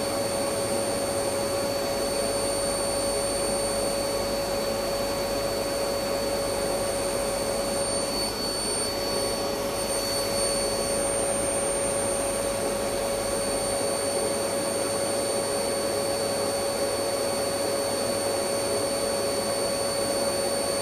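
Electric vacuum cleaner running steadily: an even motor whine with a strong steady hum.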